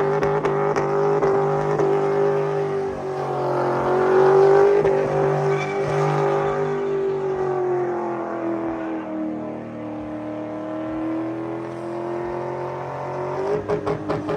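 Vehicle engine revving hard, held at a high steady pitch that sags about ten seconds in and climbs back, with rapid stuttering pulses again near the end.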